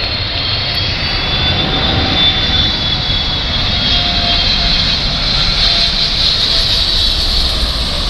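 Jet airliner passing close on its landing approach: a loud, steady rush of engine noise with a high whine that drifts slightly lower in pitch.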